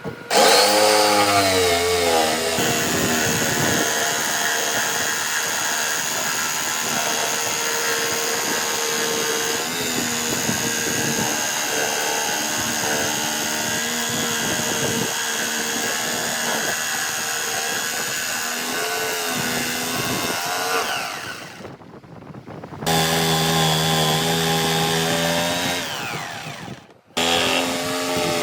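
Power tool motor running steadily while working wood. It spins up at the start, stops for about a second around two-thirds of the way through, then runs again, with a brief stop and restart near the end.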